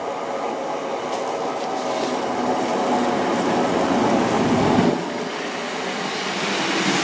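Class 150 Sprinter diesel multiple unit arriving at the platform: a steady rumble of engine and wheels that grows louder until about five seconds in, then eases off a little.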